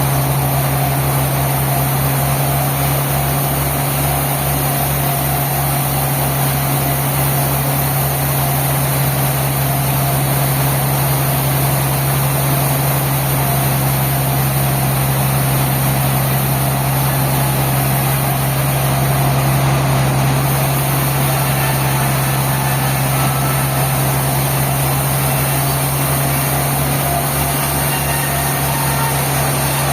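Sawmill engine running steadily at constant speed, a low even hum with a fast regular pulse underneath.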